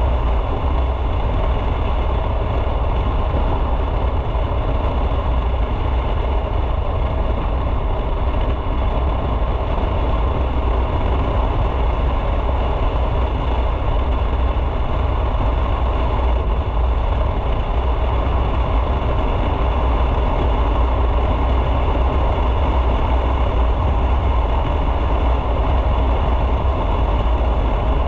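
Motorcycle engine running steadily, with a deep, even rumble and no change in pace.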